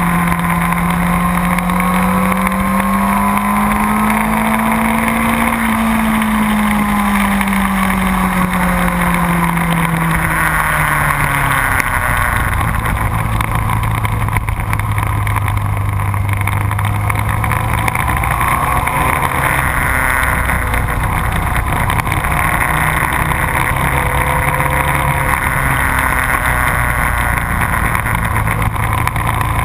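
Motorcycle engine under way on a race track, its note rising and falling over several seconds, then dropping to a lower, steadier pitch about twelve seconds in, over a constant rushing noise.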